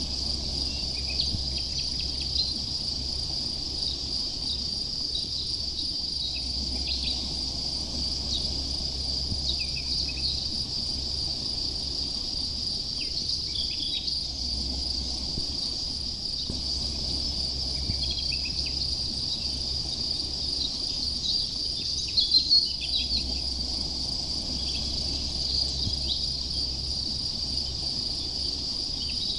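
Continuous high-pitched chirring of crickets, with short bird chirps here and there and a brief louder burst of chirps about three quarters of the way through, over a steady low rumble.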